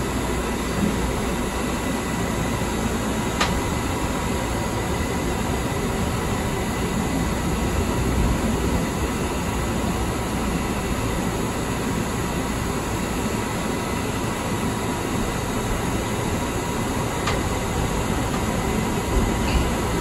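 Light rail train running through a subway tunnel, heard from inside the car: a steady rumble of wheels on the rails, with two brief ticks, about three seconds in and near the end.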